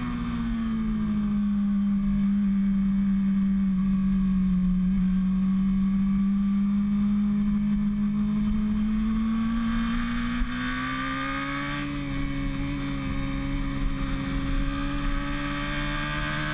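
Motorcycle engine running hard at high revs on a racetrack. Its pitch sags slightly at first, then rises about ten seconds in and holds there.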